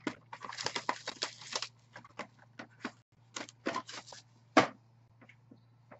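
Trading-card packaging being handled: a quick run of crinkling and tearing near the start, then a few scattered sharp taps and clicks.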